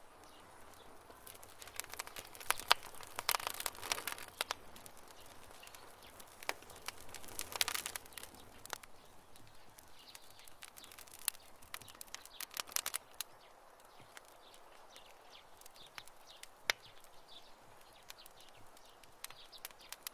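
Wood campfire crackling: irregular sharp pops and snaps, bunched in clusters, over a faint steady hiss, with one loud single pop past the middle.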